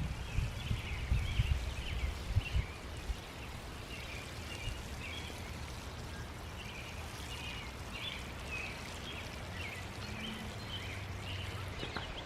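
Outdoor ambience with birds chirping repeatedly, short high calls throughout, and a few low thumps in the first three seconds.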